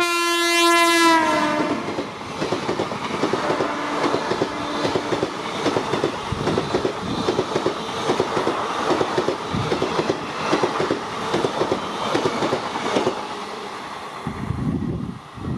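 Express train passing at speed. The electric locomotive's horn drops in pitch as it goes by and stops about a second and a half in, then the coaches' wheels clatter over the rail joints in a fast, even rhythm for about eleven seconds before thinning out, with a short low rumble near the end.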